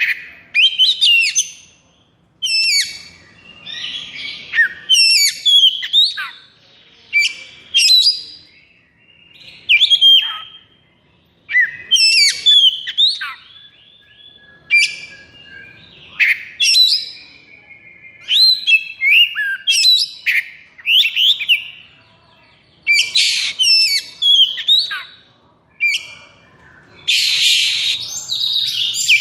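Oriental magpie-robin (kacer) singing a fast, varied stream of whistled and chirping phrases with sweeping pitches, broken by short pauses. Harsh raspy notes are mixed in, the loudest near the end. This is the agitated, rapid-fire 'konslet' song used to provoke other kacer into singing.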